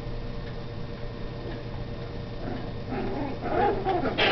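Restless dogs whining and yipping in short calls over the last second and a half, loudest near the end, over a steady low hum.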